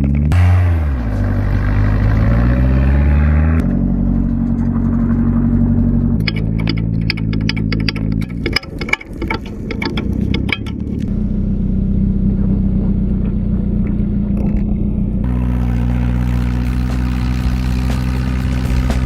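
Engine revving up and down, then running steadily in several cut-together stretches, with a rapid clatter for a few seconds in the middle; most likely the Toyota car engine fitted to the Dnepr sidecar motorcycle.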